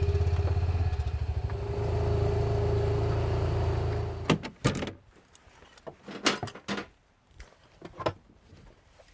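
A vehicle engine running steadily, then shut off abruptly about four seconds in. It is followed by several sharp clunks and clicks, like a door and latches being worked.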